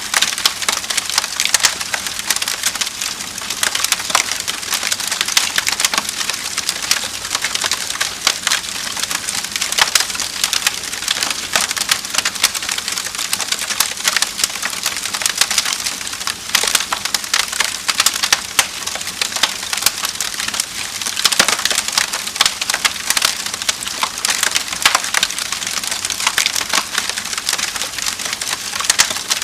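Wood fire crackling in a fireplace: dense, irregular snaps and crackles over a steady hiss.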